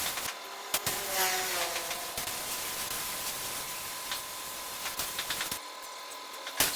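A steady airy hiss with a few short falling tones and sharp clicks, dropping out briefly near the start and again near the end.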